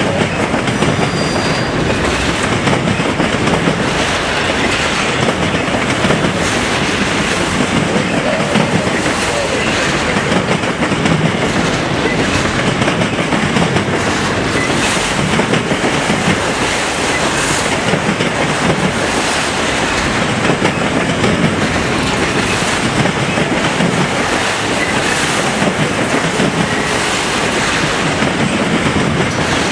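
A train rolling past close by: a steady loud rumble of wheels on rail, with regular clacks as the wheels cross rail joints.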